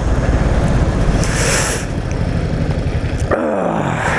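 Honda Shadow Sabre's 1100 cc V-twin engine running with an even low pulse, and a brief gust of hiss about a second and a half in. About three-quarters of the way through the engine sound cuts off abruptly and a falling tone follows.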